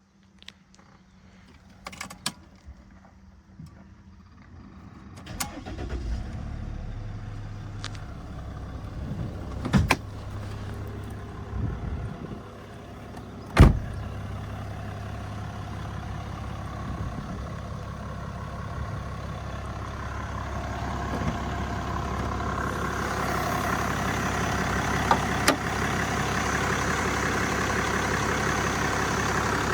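Mercedes-Benz E320 CDI diesel engine being cold-started about five seconds in after a few small clicks, then idling steadily, with several sharp thumps, the loudest about halfway through. In the last third the engine and road noise build steadily as the car gets moving.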